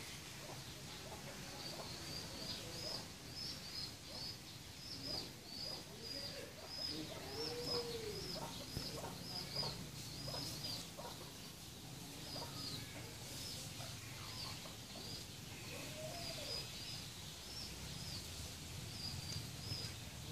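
A bird chirping over and over, short high chirps about two or three a second with a pause near the middle, and a low cooing call twice.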